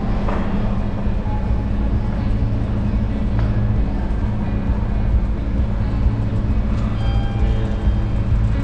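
Steady low rumble of a vehicle in motion, starting abruptly, with quiet background music coming in over it during the second half.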